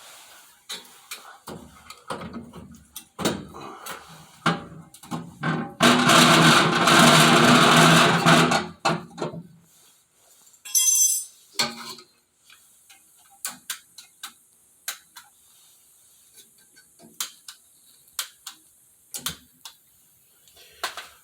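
Metal clinks and knocks of tools working on a boiler's sheet-metal casing and fittings. About six seconds in, a louder pitched mechanical run lasts roughly three seconds, with a shorter burst near eleven seconds.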